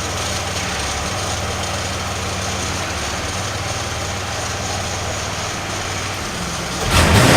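Pontiac Firebird engine idling steadily through its stock exhaust, muffler still fitted. Near the end it gets suddenly louder, as if revved.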